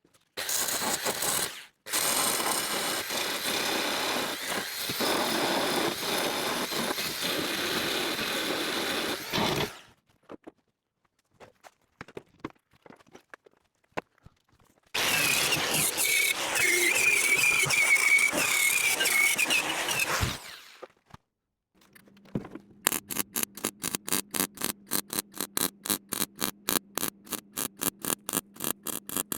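MIG welder welding a repair panel into a car's wheel arch: two long runs of crackling arc of several seconds each, separated by pauses, then a fast train of short stitch bursts, about six a second, over a faint steady hum.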